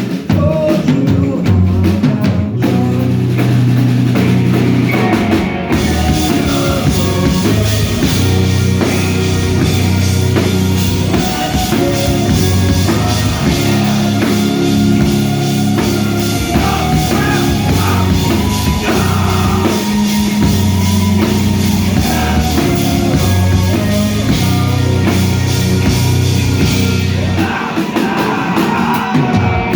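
Live rock band playing loud and distorted, with drum kit, electric guitars, bass and vocals, heard through the room.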